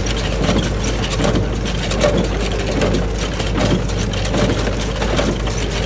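Tractor engine running steadily while driving an old Massey Ferguson 20 small-bale baler, with mechanical clatter over the engine. It cuts off abruptly near the end.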